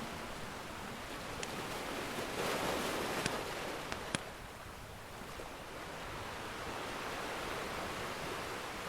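Ocean surf washing in, swelling about two to three seconds in and easing off, with a few sharp pops from a crackling wood fire.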